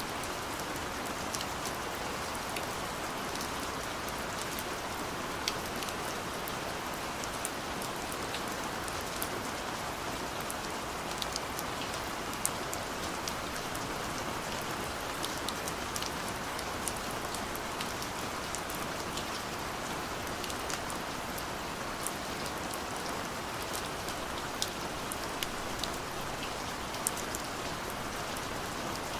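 Steady rain falling on a surface, with individual drops ticking sharply now and then over the continuous patter.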